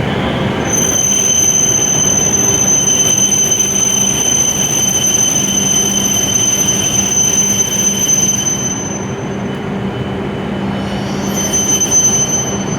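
W7 series Shinkansen train moving along the platform, its running noise carrying a steady high-pitched squeal. The squeal fades out about nine seconds in and returns near the end.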